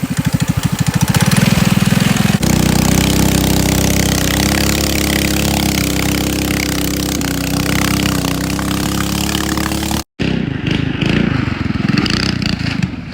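Coleman mini bike's small single-cylinder engine running. It chugs in rapid pulses for the first two seconds or so, then settles into a steadier, higher, slightly wavering note. About ten seconds in it cuts off abruptly, and a rougher engine sound follows and fades near the end.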